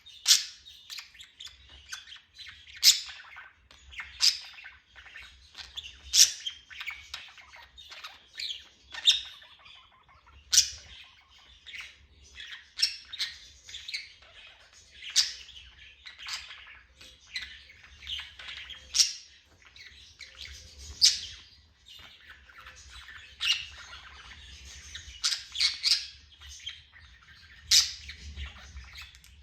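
Pet parrot chirping and squawking, with sharp loud chirps every second or two and softer chatter in between.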